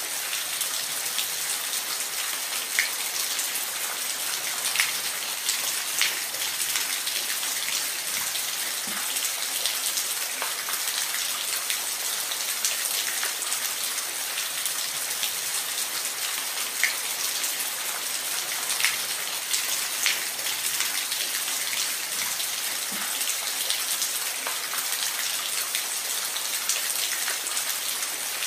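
Waterfall: an even, steady hiss of falling, splashing water, with sharp drip-like splashes popping out every few seconds.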